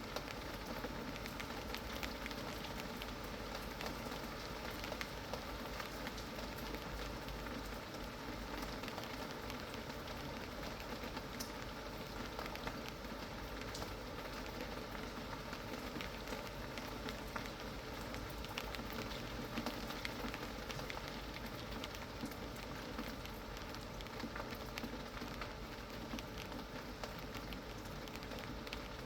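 Steady rain falling, with many small drop impacts.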